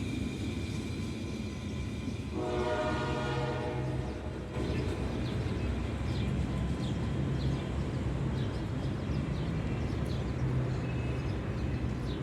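General Electric diesel locomotive passing, its horn sounding for about two seconds starting about two seconds in. The engine and rail rumble run on steadily after the horn stops.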